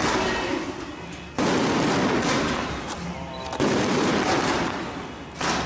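Fireworks display going off in dense, rapid crackling and banging salvos. A new volley starts sharply about a second and a half in, and another near the end.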